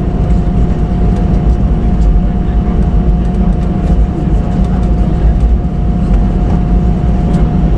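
Jet airliner cabin noise: the engines run loud and steady with a deep rumble and a constant whine, with faint rattling ticks over it.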